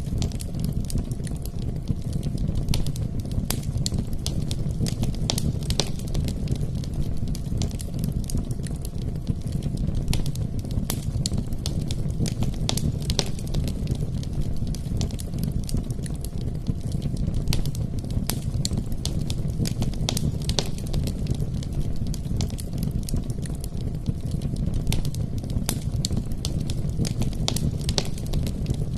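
Wood fire burning in a fireplace: logs crackling and popping with many sharp snaps over a steady low rumble of flame.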